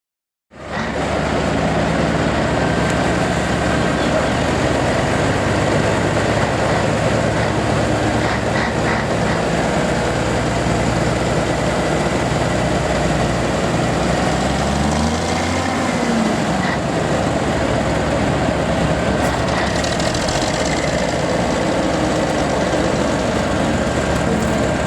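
Heavy truck engines running steadily, with one engine's pitch rising and falling once about halfway through. The sound starts abruptly about half a second in.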